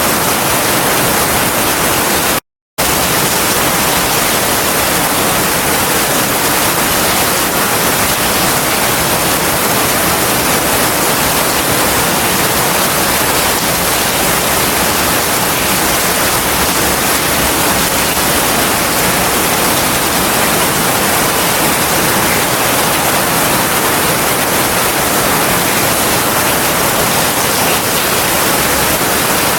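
Heavy rain falling steadily, a dense even hiss. About two and a half seconds in it cuts out to silence for a fraction of a second, then resumes unchanged.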